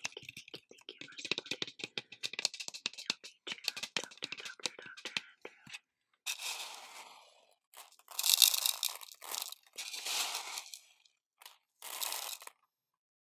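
Close-miked ASMR trigger sounds: a quick, dense run of dry clicks for about six seconds, then four separate rustling, crinkly swishes.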